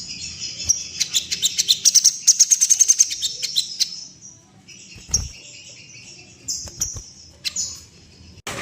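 A sogon songbird singing a busy, high chattering song, with a fast stuttering run of repeated notes at about ten a second in the first half, then quieter, shorter phrases after a brief dip.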